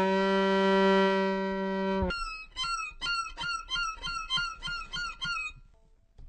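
Violin bowed to mimic animal calls: one long held note for about two seconds, then a quick run of short chirping notes, each sliding down in pitch, about three or four a second, stopping shortly before the end.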